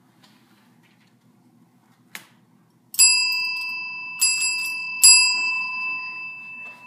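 A small metal bell struck three times, about a second apart, its clear ringing tone lingering and fading between strikes. A sharp click comes a second before the first strike.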